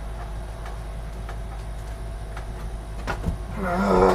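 Light clicks and knocks of a motherboard being handled and pushed against a PC case, over a steady low hum. Near the end comes a louder, pitched rasp lasting about half a second.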